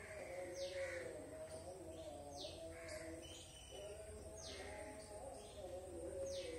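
Birds calling: a short falling call repeated about every two seconds over lower, wavering tones, faint under a steady low hum.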